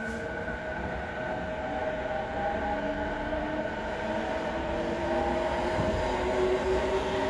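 A JR East E217 series electric train's Mitsubishi IGBT VVVF inverter and traction motors whining as it pulls away, heard inside the motor car. Several tones sound together, some rising slowly in pitch while the whole grows gradually louder over the rumble of the running gear.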